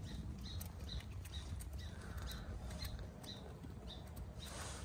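A wild bird repeating a short, high call two or three times a second, a call that sounds like a ticked-off squirrel's bark. Under it are soft clicks and rustles of hens pecking in straw.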